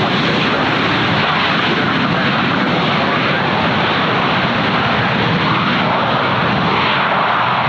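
Jet airliner engines running loud and steady, a dense rushing noise with a faint whine that wavers in pitch in the second half.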